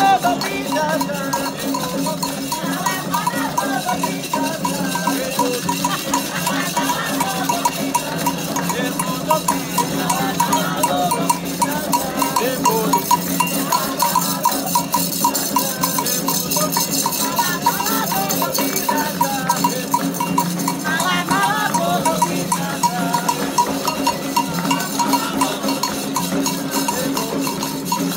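Candomblé ritual music: a steady percussion rhythm with rattles and a bell, and voices singing over it.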